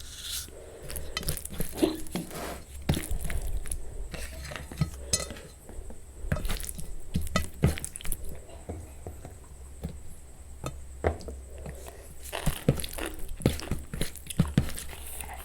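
Close-miked eating sounds: irregular clinks and taps of dishes and utensils mixed with chewing and mouth clicks, over a steady low hum.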